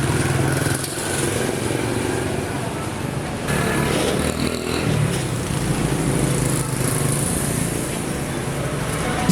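Motorbike engine running steadily.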